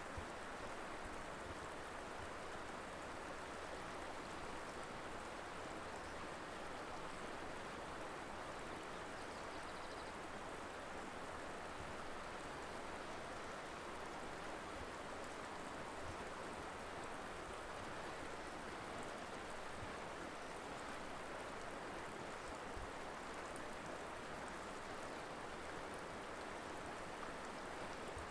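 Colorado River flowing, a steady, even rush of moving water.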